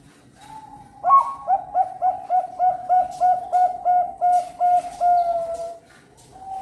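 Zebra dove (Bangkok perkutut) singing its cooing song: a soft lead-in note, then a fast run of a dozen or more short, evenly spaced coos, about three a second, closing on a longer drawn-out note.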